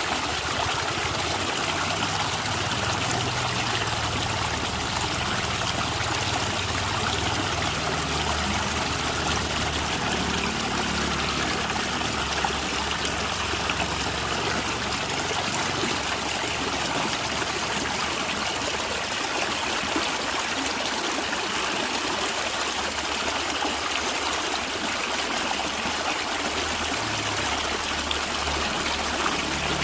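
A natural stream trickling and gurgling over stones, a steady even rush of water with no pauses.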